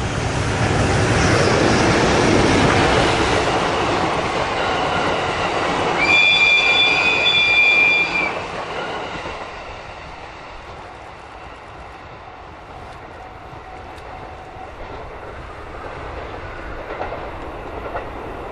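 Train running past on the rails, a broad rumble that builds to a peak a couple of seconds in and then fades away. Midway through, a high steady tone sounds for about two seconds and cuts off.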